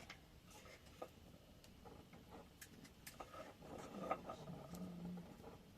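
Faint, scattered clicks and light taps of dishes and utensils being handled.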